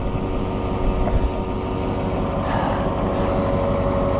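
Farm tractor engine running steadily, with a steady whine coming in about halfway through.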